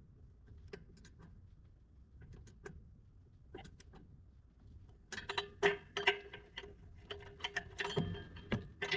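Metal tool clicks while an exhaust manifold nut is tightened: a few scattered clicks at first, then a faster, denser run of ticking from about halfway through.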